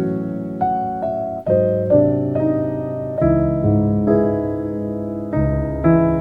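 Background piano music: slow chords and melody notes struck and left to ring, a new note roughly every half second, with deeper bass notes sounding from about halfway through.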